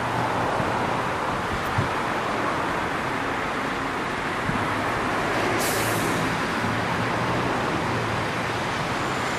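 Class 333 electric multiple unit approaching on the electrified line: a steady rushing noise with a faint low hum, and a short hiss about six seconds in.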